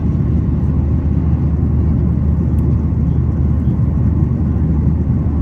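Steady low rumble inside the cabin of a Boeing 737-900ER: engine and airflow noise heard from a window seat.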